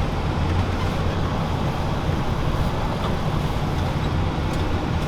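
Valtra T191 tractor's diesel engine running steadily at low revs, a constant low rumble.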